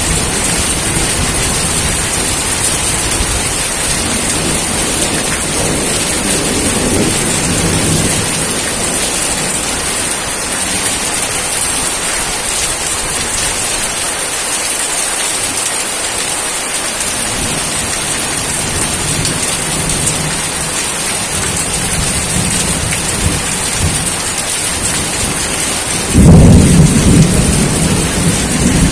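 Steady heavy rain with thunder rumbling low. A mild rumble comes about a quarter of the way in, and a louder thunderclap breaks in near the end.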